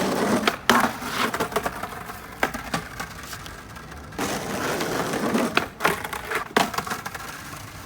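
Skateboard wheels rolling on wet pavement, then sharp wooden clacks of the board hitting a ledge and landing. This happens twice: the first clack comes about half a second in, the second run ends in clacks around six seconds in.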